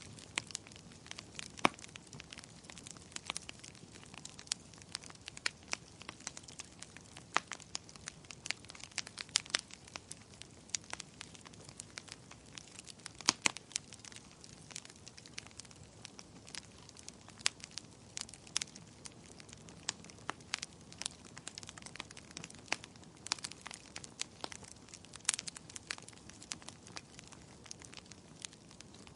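Wood fire crackling in a fireplace: irregular sharp pops and snaps, several a second and some much louder than others, over a soft steady hiss.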